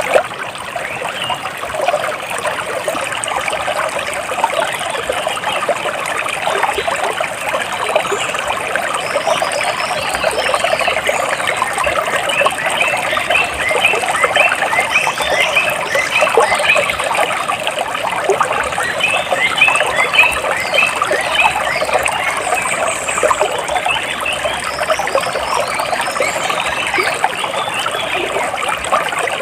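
Water splashing and trickling steadily, with birds chirping in quick series of short notes, most busily in the middle stretch.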